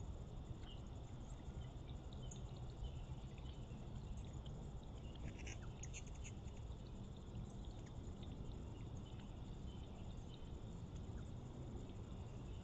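Faint, scattered bird chirps, a brief flurry about five or six seconds in, over a steady rush of running water.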